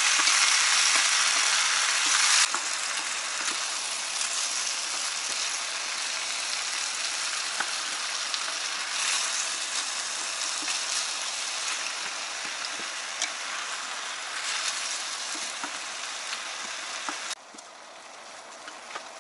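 Chicken, onion, carrot and potato sizzling as they sauté in a stainless steel pot, stirred with a wooden spatula that gives small scrapes and knocks. The sizzle drops a step about two and a half seconds in and falls away abruptly near the end.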